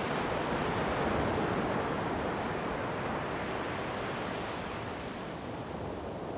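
Ocean waves washing onto the shore: one swell of surf that peaks about a second in and slowly fades back.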